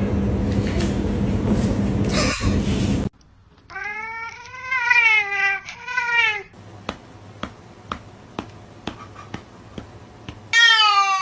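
Domestic cat meowing: drawn-out, wavering meows a few seconds in, then a louder meow near the end that starts high and falls. Before the meows there is a loud, steady rushing noise, and a few faint clicks come between the calls.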